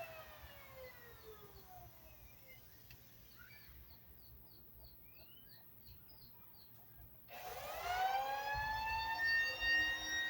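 Handheld electric planer coasting down after its switch is released, its whine falling in pitch and fading over the first few seconds. About seven seconds in it is switched on again and its whine climbs quickly in pitch and settles into a steady running tone.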